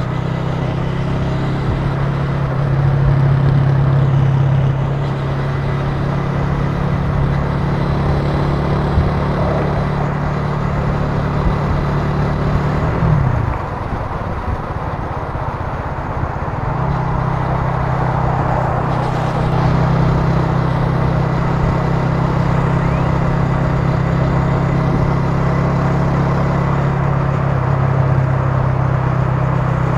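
Italika TC300 motorcycle engine running steadily at cruising speed, with road and wind noise. About halfway through, the engine note falls away for a few seconds as the throttle eases off, then picks back up and holds steady.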